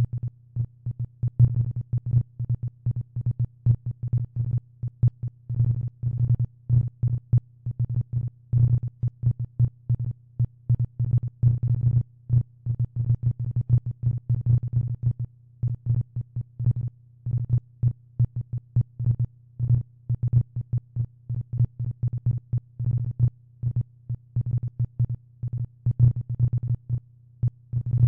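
Synthesized low-pitched blips at uneven intervals, several a second, each short and varying in loudness.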